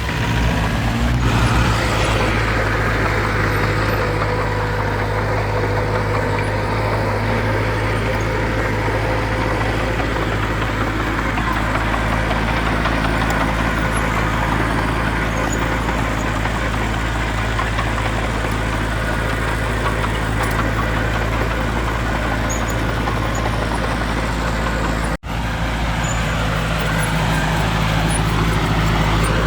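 Heavy diesel machinery engine running steadily, with a momentary cut-out about three-quarters of the way through.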